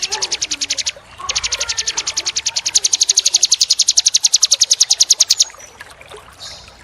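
Small songbird's rapid, dry trill: a fast, even rattle of high notes at about a dozen a second. It breaks off briefly about a second in, then runs on for about four seconds and stops.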